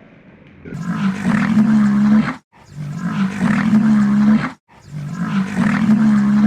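Three long, loud lowing calls from a large farm animal, each about two seconds at a steady low pitch, each cut off suddenly.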